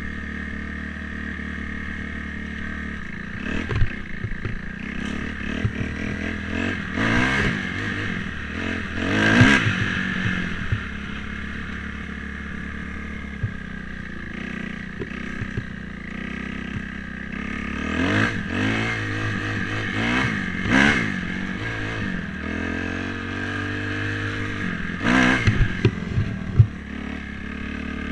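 Dirt bike engine running while being ridden, revving up in short bursts about six times, with a few clatters and knocks.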